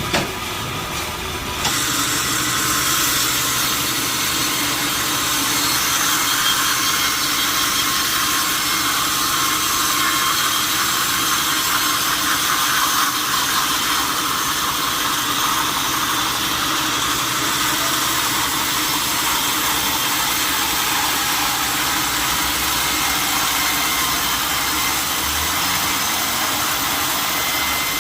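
Sawmill saw cutting through a large log: a steady hissing noise that gets louder about two seconds in and then holds.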